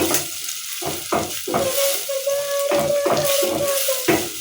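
Onions frying in oil in a pot, stirred with a wooden cooking stick that scrapes the pot in repeated strokes. A steady tone sounds in the background from about a second and a half in until near the end.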